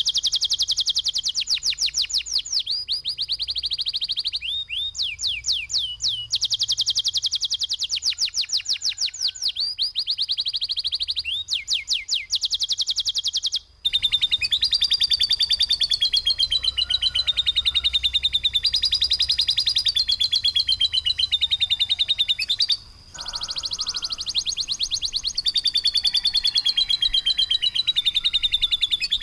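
Songbird singing a harsh, rapid-fire 'tembakan' song: fast strings of repeated notes, about eight to ten a second, in runs of a few seconds that shift in pitch. The song cuts out briefly twice, about 14 and 23 seconds in.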